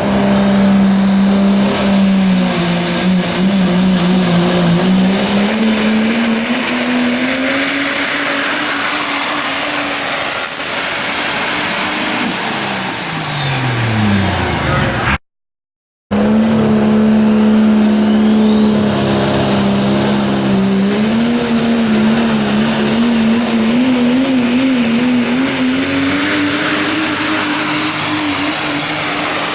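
Super stock diesel truck at full power under load: a steady engine note that climbs, with a turbocharger whine rising to a very high scream. About halfway through the engine and whine wind down and fall in pitch, then after a brief cut another pull starts and the whine climbs again.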